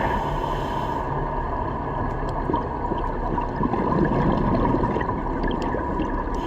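Underwater ambience: a steady rushing, rumbling wash of water noise with a faint steady hum and scattered small clicks.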